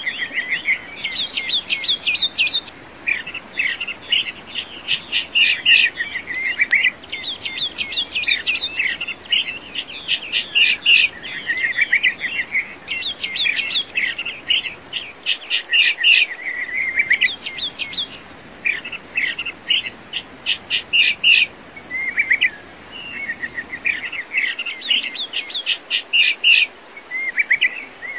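Birds singing: quick chirps and trilled phrases follow one another throughout, with short pauses between phrases.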